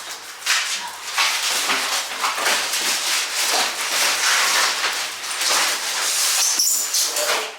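Rustling and scraping as a heavy appliance is handled and shifted into place, with a short high squeak near the end.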